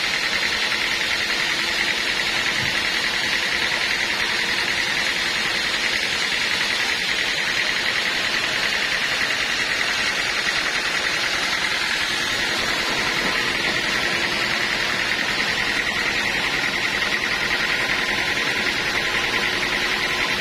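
Sawmill band saw running, a steady loud noise with a high whine held at one pitch throughout.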